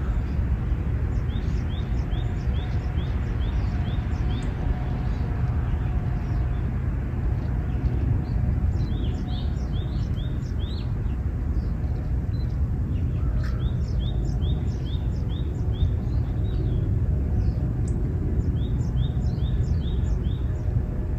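Small birds calling in runs of short, high, evenly repeated notes, several a second, with other thin high calls scattered among them. Under them runs a steady low rumble of outdoor ambience.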